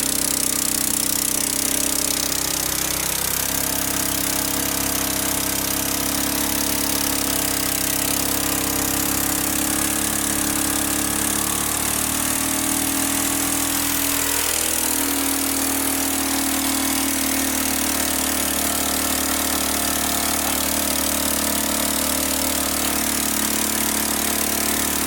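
Small engine-driven generator running steadily, its speed and pitch shifting a few times.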